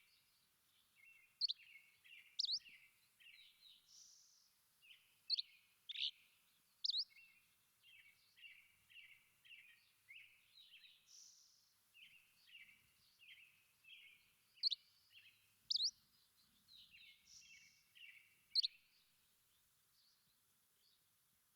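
Songbird song: repeated rapid runs of short chirps, broken every second or so by loud, sharp upward-sweeping whistled notes. The song stops shortly before the end.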